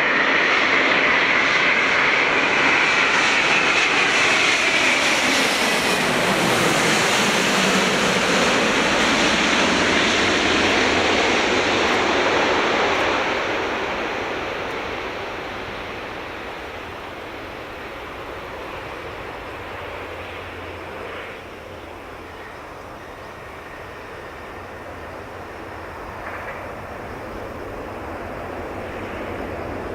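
Airbus A350 passing low overhead on landing approach. The whine of its Rolls-Royce Trent XWB turbofans falls steeply in pitch as it goes by. The loud jet noise then fades to a lower, steady rumble.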